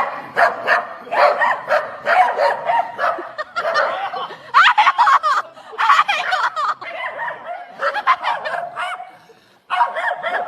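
A dog vocalizing over and over in short excited barks and yowls, with a brief pause near the end.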